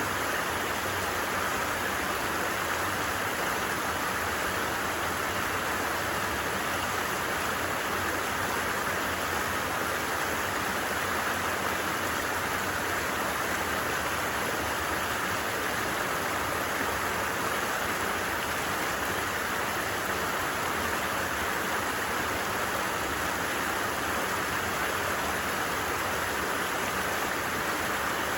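A creek running steadily, an even rushing and babbling of water with no pauses or changes.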